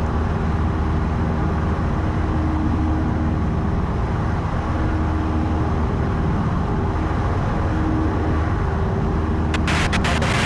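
Steady cabin drone of a 1972 Cessna 172's four-cylinder Lycoming engine and propeller in flight, with a few sharp clicks near the end.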